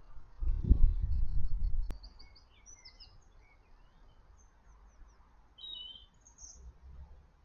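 A low rumbling noise for the first two seconds ends with a sharp click. Then small garden birds give a scattering of short, high chirps and calls.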